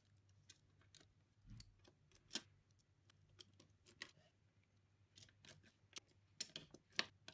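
Near silence broken by a few faint, short clicks and taps from handling the hard drives and their plastic mounting trays, with a small cluster near the end.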